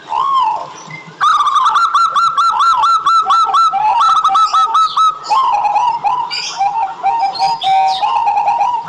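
Zebra dove (perkutut) song: one arched coo, then from about a second in a fast string of short, repeated, clipped coos. The notes become more varied toward the end.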